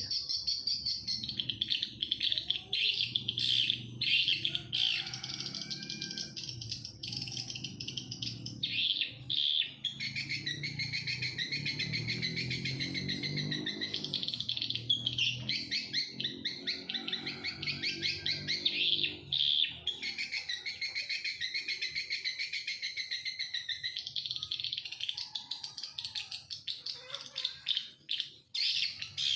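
Many small birds chirping and calling continuously in a dense, overlapping chorus. A low drone sits underneath for much of the first two-thirds, then fades out.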